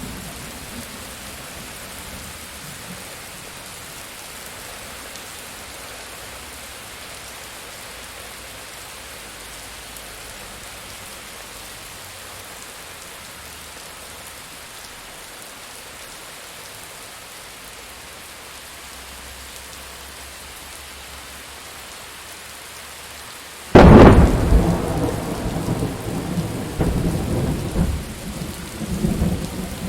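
Steady heavy rain. About three-quarters of the way through, a sudden loud thunderclap cracks close by and rolls on in a long rumble.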